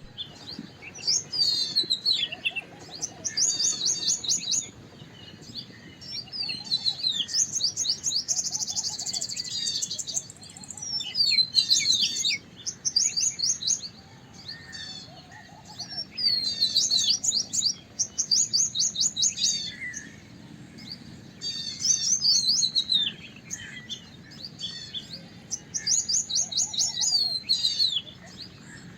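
White-browed wagtail singing. It repeats phrases of rapid high trills and descending whistled notes, every few seconds, with short pauses between them.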